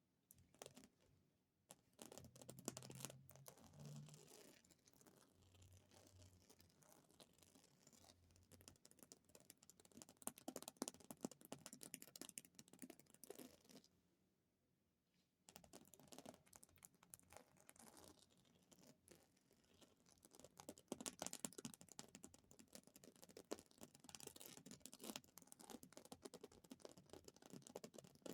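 Very fast tapping on objects: a dense, quiet stream of small taps that stops for about a second and a half around the middle, then starts again.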